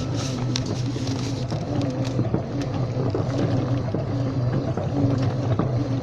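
Washing machine running: a steady low motor hum with a wavering tone above it that comes back over and over, and scattered small clicks and knocks.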